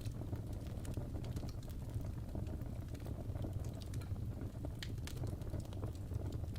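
Wood fire burning in a fireplace: a steady low rumble with scattered crackles and a few sharper pops.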